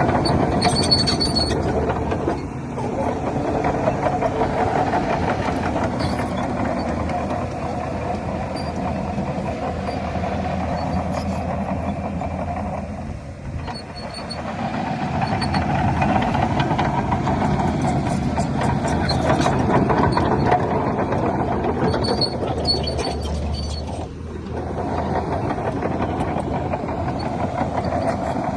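Heavy diesel engines of earthmoving machines running under changing load, easing off briefly three times and building again each time.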